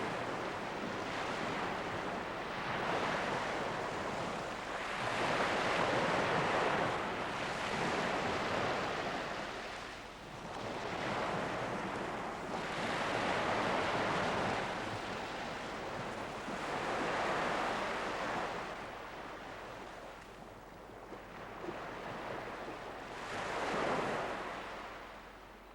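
Surf washing onto a beach: waves breaking and running back in slow surges every few seconds.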